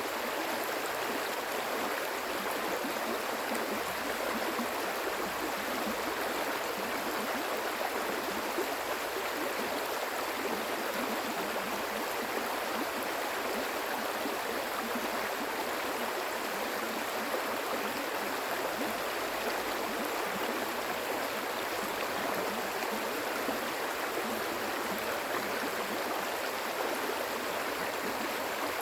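Flowing stream water running steadily, a continuous rushing and gurgling.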